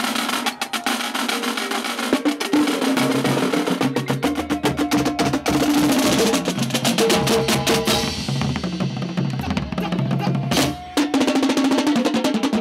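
Marching drumline playing a fast cadence: rapid snare drum strokes and rolls over pitched bass drums, with a short break near the end before the playing resumes.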